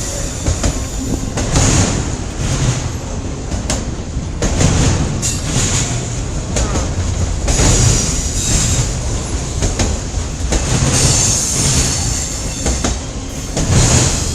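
CN freight train's cars rolling past, with a steady rumble of wheels on rail, recurring clicks over the rail joints and a high squeal of wheels on the rail that swells and fades every second or two.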